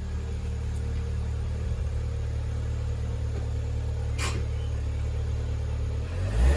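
2009 Vauxhall Corsa VXR's 1.6 turbocharged four-cylinder petrol engine idling steadily, with a single short click about four seconds in. Near the end the engine note rises and swells as the car is driven off.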